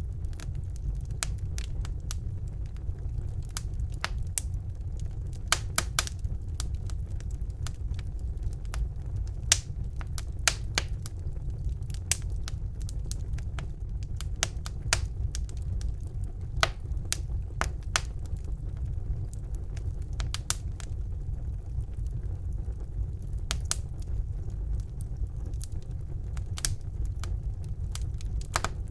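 Wood fire burning in a fireplace: a steady low rumble of flame with sharp crackles and pops at irregular intervals.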